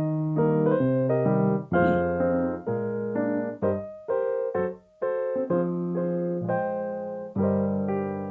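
Solo piano playing slow, sustained chords, with a brief pause about five seconds in.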